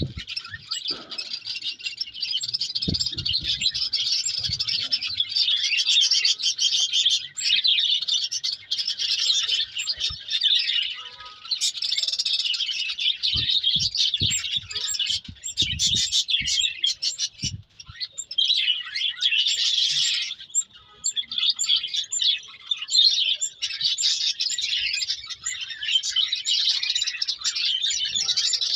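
A flock of small birds chirping and twittering together in a dense, continuous chatter, with a few brief dips. A few dull low knocks sound at about 3 seconds and again between 13 and 18 seconds.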